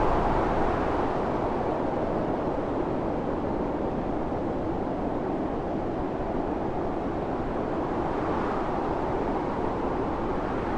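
Blizzard wind blowing steadily, a dense rushing howl that eases slightly after a stronger gust at the start.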